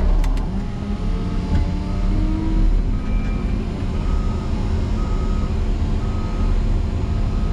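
Motor grader's diesel engine running hard, heard from inside the cab, with a faint backup alarm beeping about once a second from about a second in as the grader reverses for another run at the drift.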